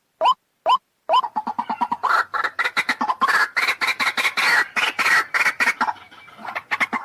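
White-breasted waterhen calling: a short rising note repeated about twice a second, then from about a second in a fast, dense chatter of harsh calls that breaks off briefly near the end before starting again.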